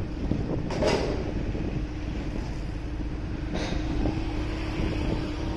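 Motorcycle riding through city traffic: the engine runs steadily under road and wind noise, with two short hissing bursts about a second in and again about three and a half seconds in.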